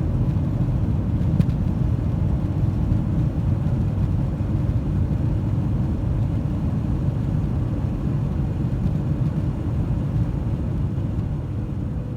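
Steady low rumble in the cabin of a Boeing 737-900ER airliner rolling out on the runway after landing, easing slightly near the end as it slows.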